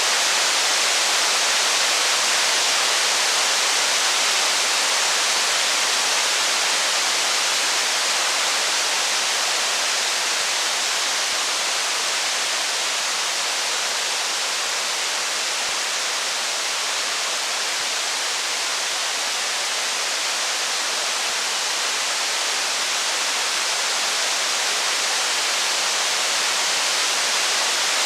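Steady, even rain hiss with no letting up, easing slightly around the middle and building back toward the end.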